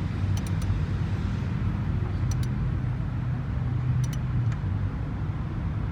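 A steady low hum, like a running engine or machine, with a few short, sharp metallic clicks of hand tools on the valve gear, in pairs about a second or two apart.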